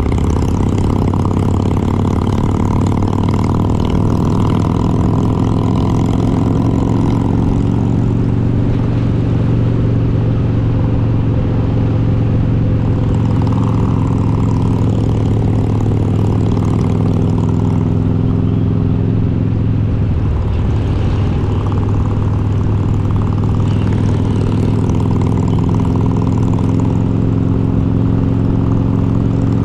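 Harley-Davidson Road King's V-twin, built up with an S&S 95-inch kit and Super Stock heads, running steadily while riding, with a brief change in the engine note about twenty seconds in.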